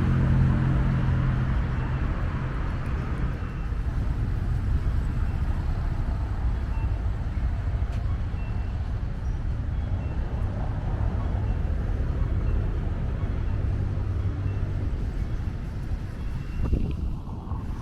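City street traffic: a steady low rumble of car and truck engines and tyres. One vehicle's engine hum fades away in the first couple of seconds, and a short knock comes near the end.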